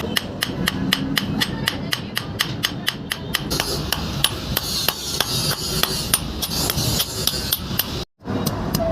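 Rapid, evenly paced hammer blows on steel, about four strikes a second, as a chisel is forged. The strikes break off for a moment near the end.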